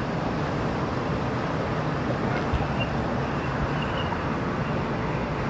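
Steady low rumble and hiss of a vehicle or nearby road traffic.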